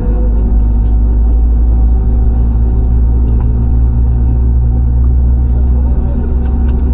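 Loud, steady low rumble of an airliner heard inside the passenger cabin, the engine and airframe noise stepping up right at the start and then holding steady with a faint hum over it.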